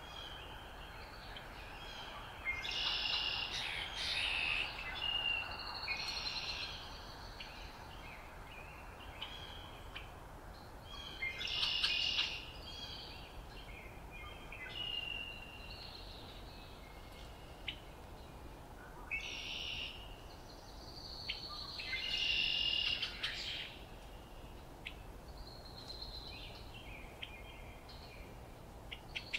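Songbirds singing in short, repeated phrases every few seconds, over a faint steady background hiss.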